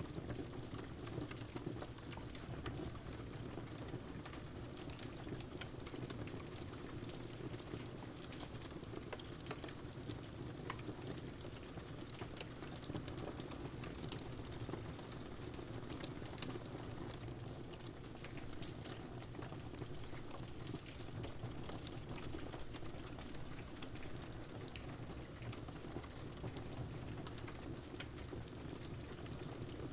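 Wood fire crackling over steady rain: a constant even hiss with many small, scattered pops and snaps.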